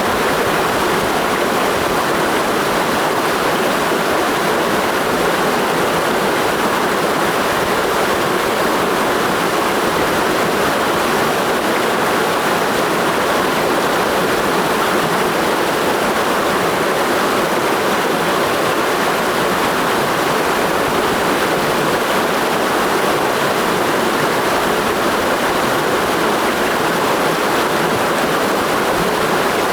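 Clear mountain stream in a gorge rushing steadily, an even and continuous sound of flowing water.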